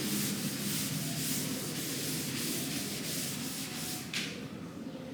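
Rhythmic rubbing strokes, about two or three a second, ending with one sharper stroke a little past four seconds in.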